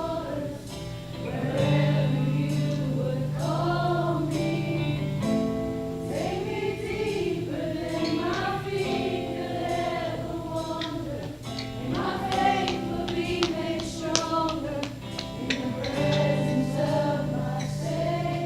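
Live church worship band with voices singing over held low notes and a steady beat of cymbal and drum hits.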